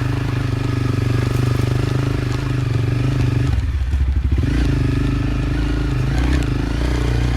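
Motorcycle engine running steadily, its revs falling about three and a half seconds in, picking up again a second later, and falling once more near the end as the bike is eased along a dirt track.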